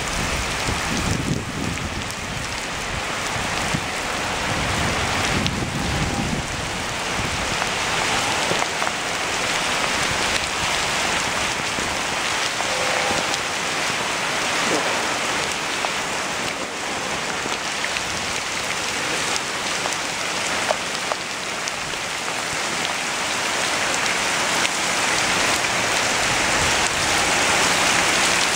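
Heavy rain pouring down onto brick pavers, flagstones and garden plants: a dense, steady hiss of falling rain.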